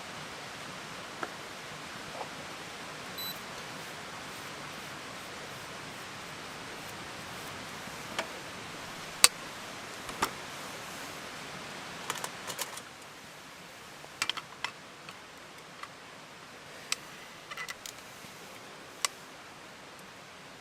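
Wood campfire crackling: irregular sharp pops and clicks, one louder snap about nine seconds in, over a steady hiss.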